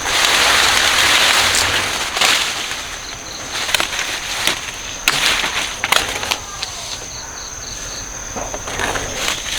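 Dry plant leaves and stalks rustling and crackling as they are handled, loudest in the first two seconds, then a string of scattered sharp cracks. A steady high-pitched insect drone runs underneath.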